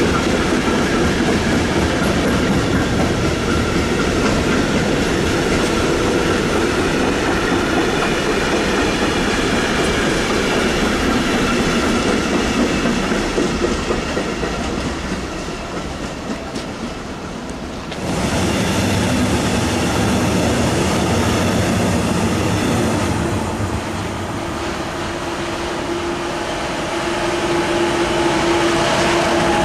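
Freight trains rolling past close by, wheels clattering over the rails. The first, a container train, fades away about halfway through; after an abrupt change a second freight train of hopper wagons rolls past, and a steady tone comes up near the end.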